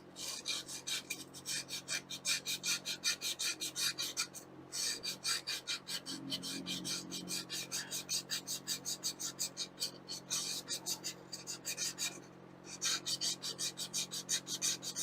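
Emery cloth scrubbed back and forth over rusty metal to clean off the rust: quick, even rasping strokes about five a second, in three runs with two short pauses.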